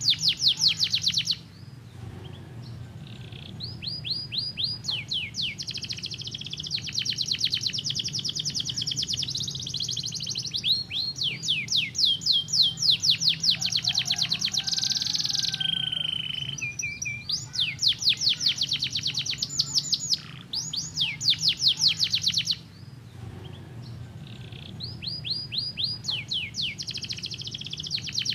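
Canary singing in long rapid trills of fast repeated down-sweeping notes. The phrases run several seconds each, with short pauses between them. A faint steady low hum lies underneath.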